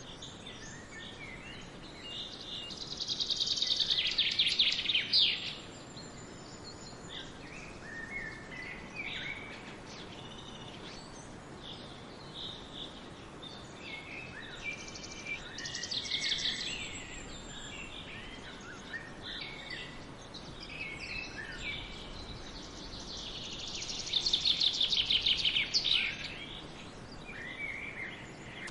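Songbirds chirping, with short scattered calls throughout over a faint background hiss. Three times, about ten seconds apart, one bird sings a loud, rapid trill of quickly repeated notes lasting two to three seconds.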